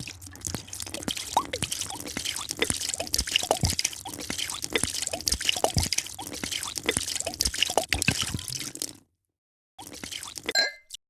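A drink being poured, a steady splashing with many small bubbling blips, that stops suddenly about nine seconds in. Near the end comes a short ringing clink.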